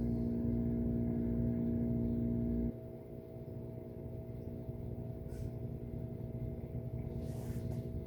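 Steady machine hum made of several steady tones over a low rumble. Its strongest, lowest part cuts off abruptly a little under three seconds in, leaving a fainter, higher hum running.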